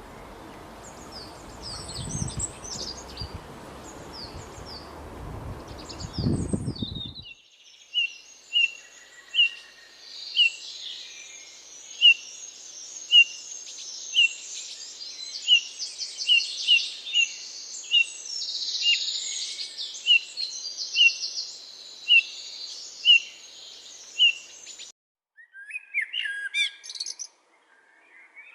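Songbirds calling, in several edited-together recordings. High chirps come first over a rustling noise; after an abrupt cut, one bird repeats a short, sharp high note about once a second over softer chattering of other birds. Near the end another cut brings different bird calls.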